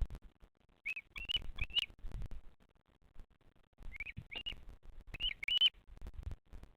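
Bearded vulture chick peeping in the nest: three groups of two or three short, high chirps, each note rising and then dropping a little. Low rumbling and faint rustling clicks sound between the calls.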